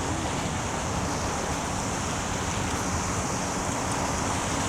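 Steady rushing noise of a rainy city street, with a faint low hum underneath.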